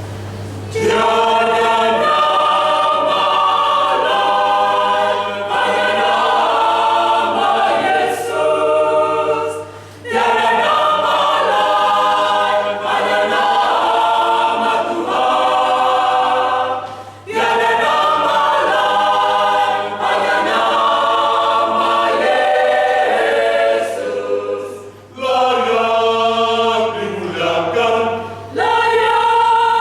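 Church choir singing a hymn in several voice parts, starting about a second in and breaking briefly between phrases.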